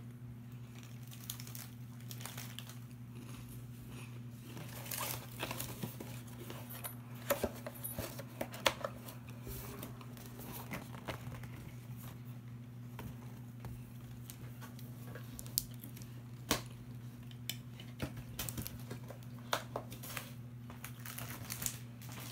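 Snack packaging being handled, its plastic and paper crinkling and tearing in scattered short rustles and clicks, over a steady low hum.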